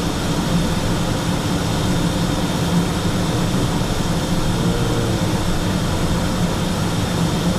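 Steady in-flight cockpit noise of a Learjet 45XR: a constant low drone of airflow and its twin rear-mounted Honeywell TFE731 turbofans, with a faint steady high whine on top.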